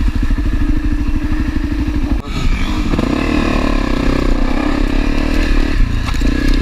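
Honda CRF250L's single-cylinder four-stroke engine pulling along a trail, chugging at low revs, then revving up as the bike accelerates through the gears. The revs drop off briefly about two seconds in and again near the end, as the rider shifts up from second into third.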